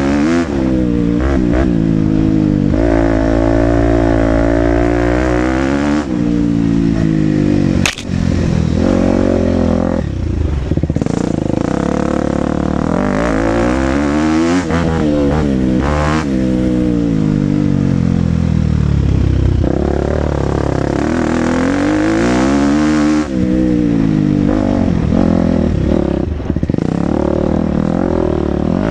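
KTM 250 SX-F single-cylinder four-stroke motocross engine under a rider, revving up and falling back over and over as the throttle is opened and closed around the track. A sharp knock about eight seconds in.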